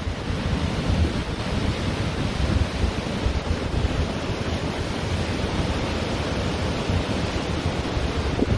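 Ocean surf washing on a beach: a steady rushing noise with a gusty low rumble of wind buffeting the microphone.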